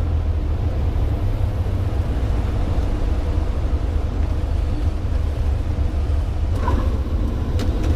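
Cessna 150's four-cylinder Continental engine and propeller heard inside the cockpit as a steady low drone. A brief tone and a couple of short clicks come near the end.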